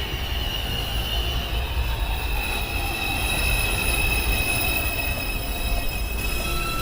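Subway train's steel wheels squealing over a steady low rumble as the train runs into a station, with several high, held squeal tones.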